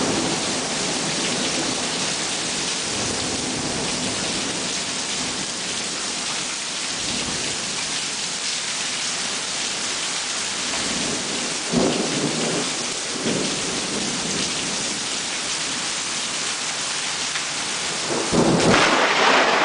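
Heavy rain falling steadily during a thunderstorm. About eighteen seconds in, a sudden, much louder crash of thunder breaks in and keeps going.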